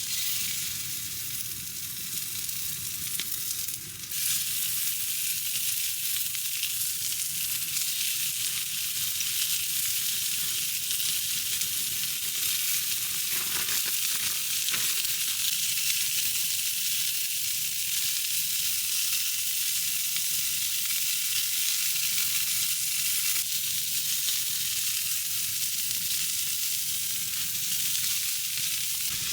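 Food sizzling steadily in a hot frying pan, a dense hiss that gets a little louder about four seconds in.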